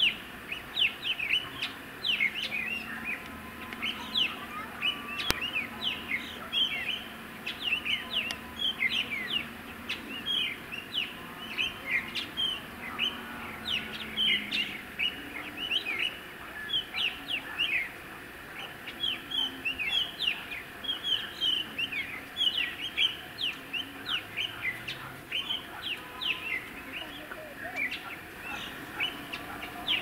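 A flock of small birds calling without pause: many short, high chirps overlapping, several a second.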